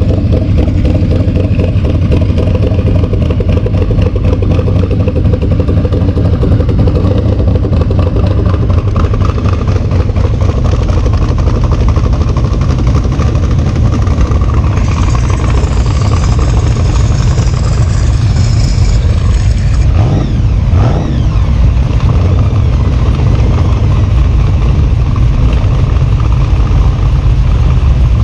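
A vehicle engine running loud and steady, its rapid firing pulses heavy in the low end, with a brief dip in level about twenty seconds in.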